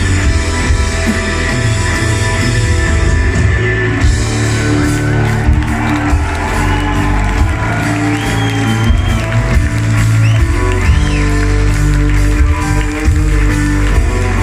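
Rock band playing live and loud, guitars to the fore.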